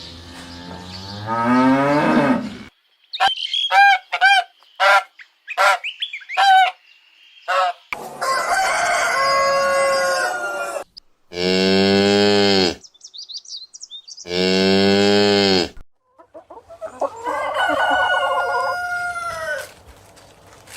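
A run of separate farm-animal calls: hens clucking and a rooster crowing, with cattle mooing. Several distinct calls follow one another with short gaps, two of them long, strong, low-pitched calls in the middle.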